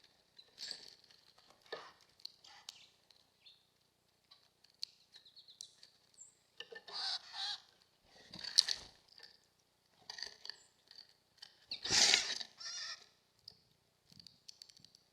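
Small birds calling and chirping around a bird feeder in many short, high notes, with a few louder, noisier bursts in the middle and near the end.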